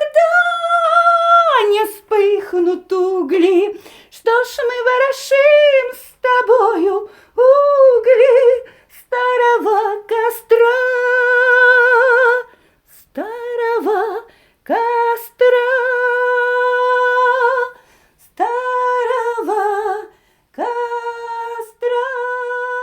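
A woman singing unaccompanied, in phrases of long held notes with a wide vibrato and short breaths between them, closing on a sustained final note.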